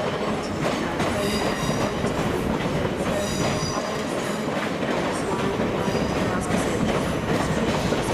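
Train moving slowly through the station: a steady rumble of wheels on rails, with high-pitched wheel squeals that come and go, strongest about a second in and again about three seconds in.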